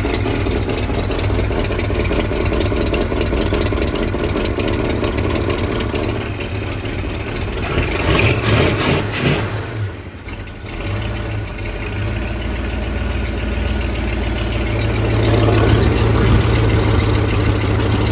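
A 1970 Mercury Cougar Eliminator's 428 Cobra Jet V8 runs on its first start after restoration. The engine swells about eight seconds in, dips sharply just after, and comes up louder again about fifteen seconds in. The restorers suspect it is running lean while they set the timing, and they call its running rough.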